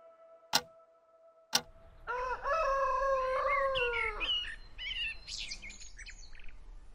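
Two sharp ticks a second apart, then a rooster crows: one long call that falls in pitch at its end, followed by a few shorter, higher calls.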